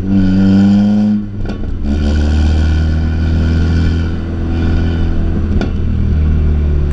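Tuned Audi S3 8P's turbocharged 2.0-litre four-cylinder accelerating with rising revs, then lifting off about a second in and running steadily at lower revs. A couple of sharp clicks come through, one just after the lift-off and one near the end.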